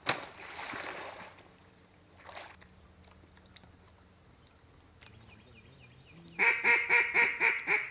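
A run of six or seven loud mallard quacks in quick succession near the end. Earlier there is a sharp knock followed by about a second of rushing noise, and a shorter noisy burst a couple of seconds later.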